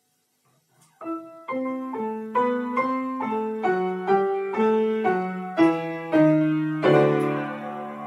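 Piano accompaniment playing an introduction: a steady run of chords, about two to three a second, over a bass that steps downward, starting about a second in after a brief silence.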